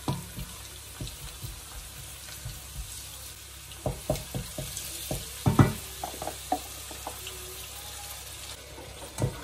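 Sliced onions frying in oil in a pot, a steady faint sizzle, with a few sharp knocks and scrapes of a wooden spoon as spice paste is scooped from a steel mixer-grinder jar into the pot. The loudest knock comes a little past halfway, and there is one more near the end.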